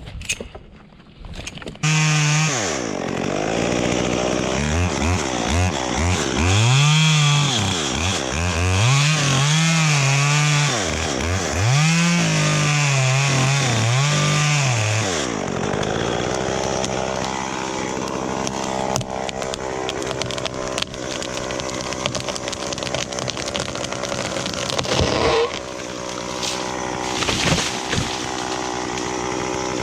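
Chainsaw cutting eucalyptus wood. It comes in suddenly about two seconds in and revs up and down over and over, then runs at a steadier speed for the second half.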